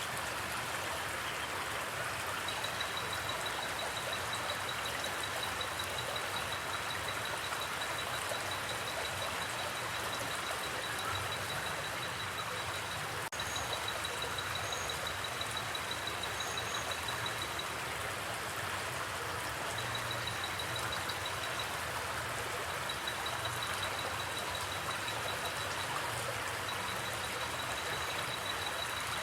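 Steady rushing of water flowing in a forest creek. A high, rapid trill comes and goes over it in stretches, with a few brief high chirps.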